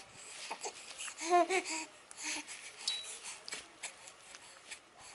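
A baby's brief coo or babble about a second and a half in, amid scattered soft clicks and rustles.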